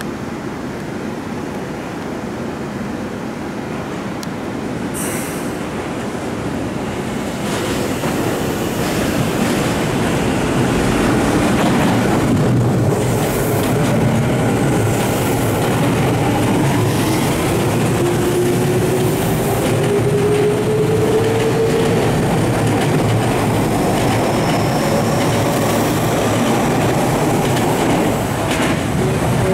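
Tokyu Toyoko Line electric commuter trains moving through the station, with rumbling wheel and track noise that builds over the first ten seconds or so. From about the middle, a steadily rising motor whine sounds as a train accelerates.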